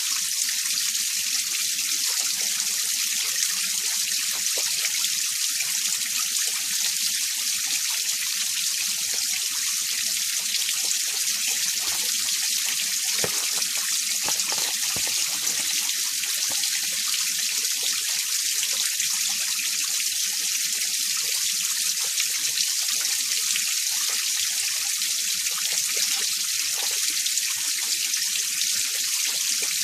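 Mountain valley stream running steadily, a continuous hissing splash of water with most of its sound high-pitched.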